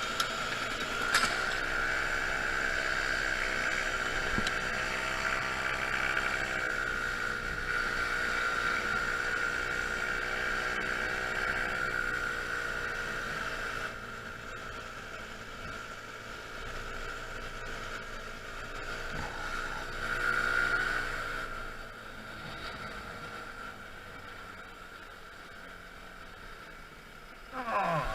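Honda Zoomer scooter's 50 cc four-stroke single-cylinder engine running on the move, with a steady whine above the engine note. The engine quietens about halfway through, then revs up with a rising pitch near the end.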